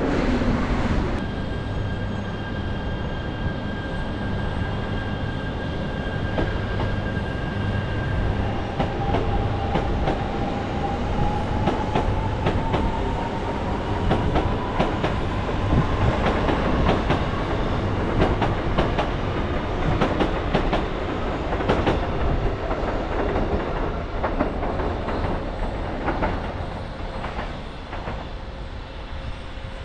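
Electric train running: steady rumble with a motor whine that rises in pitch from about eight seconds in as it picks up speed, and a run of sharp wheel clicks over the rails.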